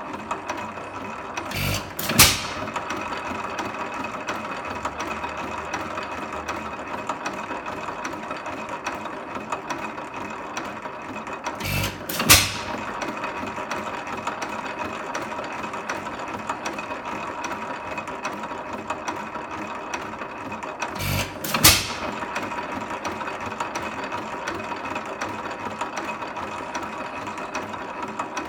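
8 hp Economy hit-and-miss engine coasting with a steady mechanical clatter, then firing. It gives three sharp bangs about ten seconds apart as the governor lets it take a charge once speed drops.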